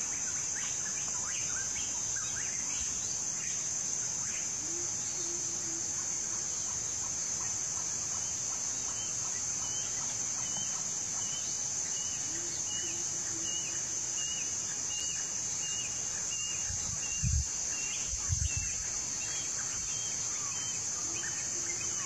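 A wild cucak timur bird calling in short, scattered notes over a steady high insect drone, with a run of evenly repeated notes at about two a second in the middle. Two low thumps come near the end.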